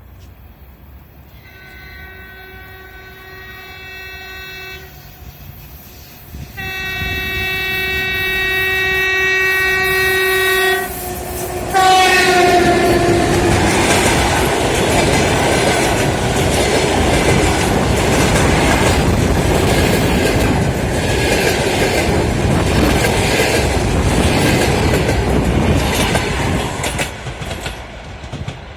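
EP1 electric locomotive with an express train sounding two long horn blasts and a shorter third whose pitch drops as it passes. The train then runs by with the wheels clicking rhythmically over the rail joints, fading near the end.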